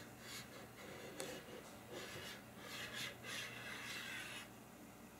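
Faint handling noise as a 1:200 die-cast model airliner is moved around by hand: scattered soft rubbing and scraping, with a small sharp click about a second in, dying away near the end.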